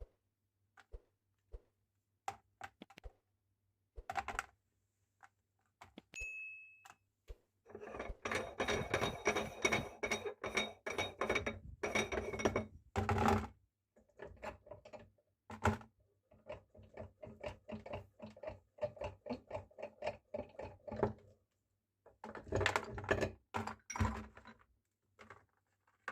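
Meat grinder crunching candy: scattered clicks and knocks at first, then long stretches of dense crackling and grinding with short pauses between them.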